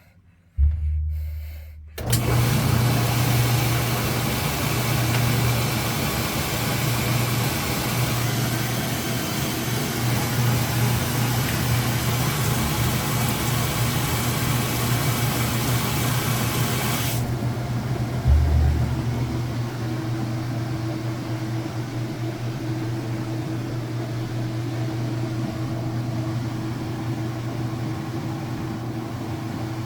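Whirlpool washing machine on its high-speed spin: a steady low motor hum with a broad hiss that starts sharply after a thump, about two seconds in. About halfway through, the hiss cuts off suddenly and the hum runs on, with a second thump and then a steady higher whine.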